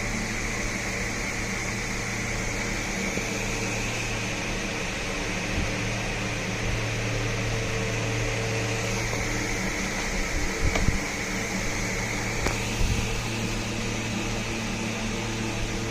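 Steady machine hum with a hiss, and a few soft knocks about ten to eleven seconds in.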